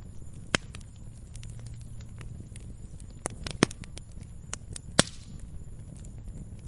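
Wood log fire crackling: irregular snaps and pops over a low, steady rumble of flames, with the sharpest pops about half a second in, at about three and a half seconds, and at about five seconds.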